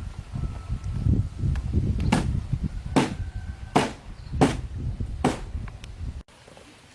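A hand tool striking wood in a steady rhythm, five sharp blows a little under a second apart, some with a brief ringing tone, over low rumbling handling noise; the sound cuts off abruptly near the end.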